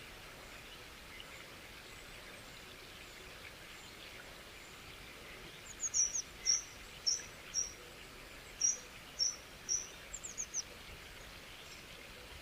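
A songbird calling a quick series of about a dozen short, high chirps over roughly five seconds, starting about halfway through, over a steady faint outdoor background hiss.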